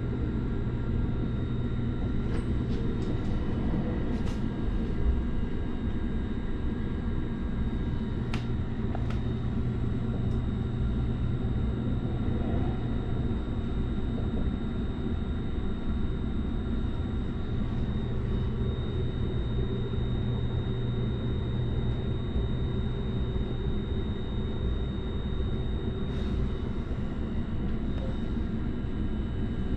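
Cabin noise of a JR Kyushu 885 series electric train under way: a steady low rumble with a constant hum, and a few faint clicks in the first ten seconds or so.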